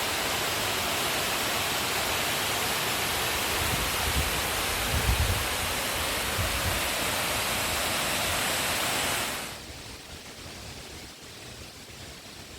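Steady rush of a waterfall, Taughannock's Upper Falls, pouring close by. About nine and a half seconds in it cuts off abruptly to a much quieter background.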